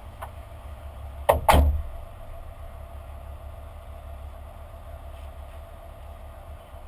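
Excavator's diesel engine running steadily with a low rumble, with two loud knocks in quick succession about a second and a half in.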